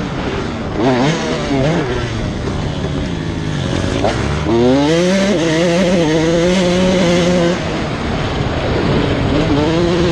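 Motocross bike engine revving hard. Its pitch climbs steeply about four seconds in, holds high, falls away briefly and climbs again near the end.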